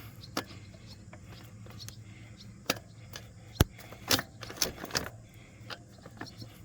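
Metal clinks and rattles of a dirt bike's drive chain being worked off the rear sprocket by hand: irregular sharp clicks, the loudest about three and a half seconds in.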